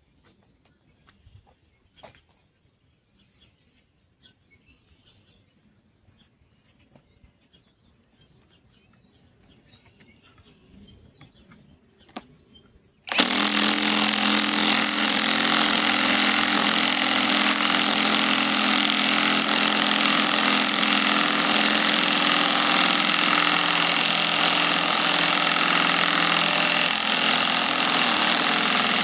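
Cordless compact impact wrench, the Hercules Gen 2, hammering continuously as it drives a fastener in. It starts suddenly about thirteen seconds in after a few quiet handling clicks, and the rapid impacting runs steadily without a pause.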